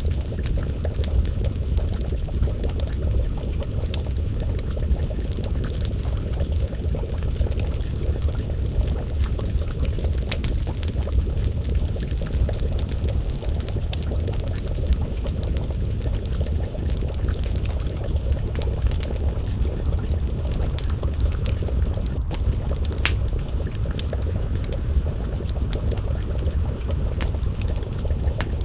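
Wood fire crackling, with scattered sharp pops over a steady low rumble, and a pot of stew bubbling at a simmer over the flames.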